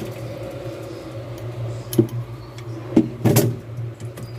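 A few sharp clicks and knocks of hand work on the copper tubing and its clips, over a steady low hum.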